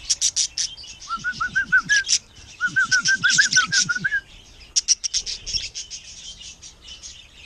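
Birds chirping: many quick high chirps throughout, with two runs of rapid, evenly repeated lower calls about a second in and again a few seconds in. The chirping thins out in the later part.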